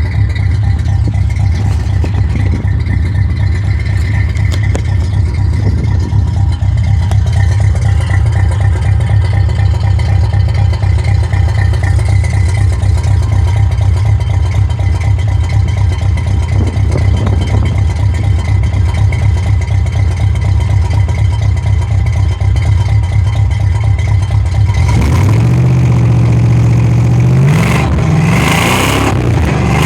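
1979 Pontiac Trans Am's V8 idling with a steady low rumble, then revved several times starting about 25 seconds in, its pitch rising and falling.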